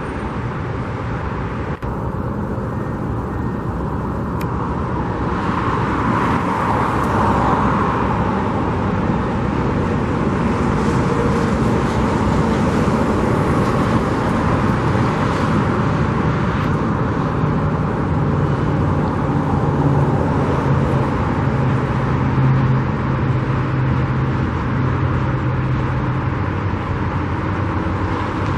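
Steady road traffic noise. A low engine hum sets in about two-thirds of the way through and runs on.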